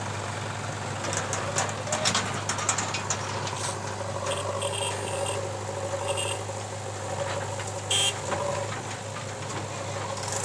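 Heavy diesel engine of earth-moving machinery running steadily. A few knocks and clatter come in the first few seconds, then short high beeps in the middle and one louder beep about eight seconds in.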